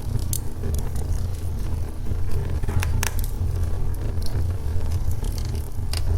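Log fire burning in a fireplace: a steady low rumble of flames with scattered crackles and sharp pops, the strongest about three seconds in and another near the end.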